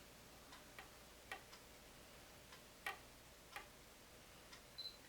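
A digital camera being handled to take a photo: faint, irregular small clicks of its buttons and body, and a short high beep near the end, like a camera's focus-confirmation beep.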